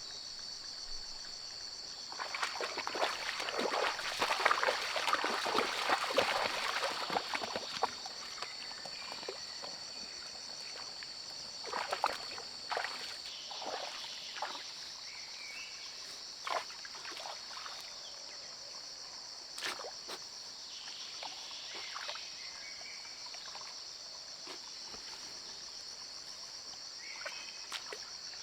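Steady high chorus of night insects such as crickets. About two seconds in, a dense crackling rustle starts and lasts some six seconds, followed by scattered soft clicks and knocks.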